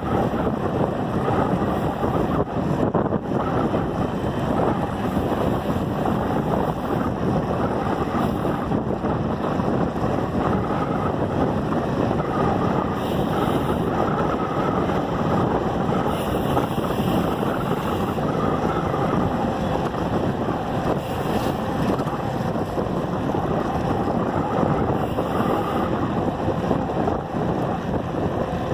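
Steady rush of wind over the microphone of a camera carried on a moving bicycle, with road noise underneath and no clear changes.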